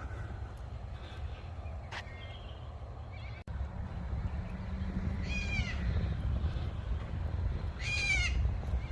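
Noisy cockatoos screeching: two harsh, falling calls about five and a half and eight seconds in, over a steady low rumble.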